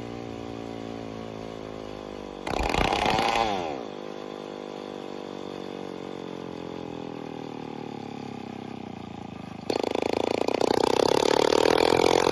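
Phantom 85 two-stroke bicycle engine running with no exhaust fitted, idling steadily. About two and a half seconds in, a short throttle blip dies back down in pitch. Near the end it suddenly gets much louder as the throttle opens and stays high.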